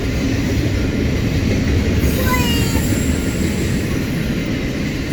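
Norfolk Southern intermodal freight train's cars rolling past, a steady loud rumble of wheels on rail. A brief high squeal sounds about two seconds in.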